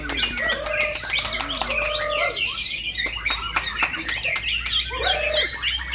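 White-rumped shamas (murai batu) singing at a contest: a dense, unbroken tangle of overlapping whistles, trills and sharp chipping notes, with a few longer held whistles among them.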